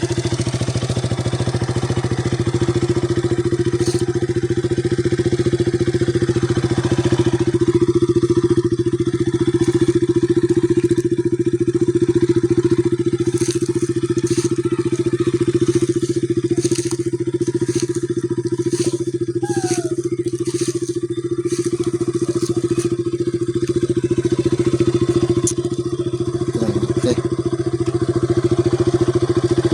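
KTM RC 200's single-cylinder four-stroke engine idling steadily, with no revving.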